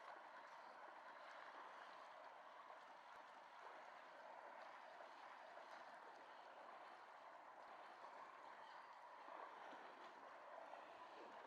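Faint, steady rushing outdoor ambience with no distinct events standing out.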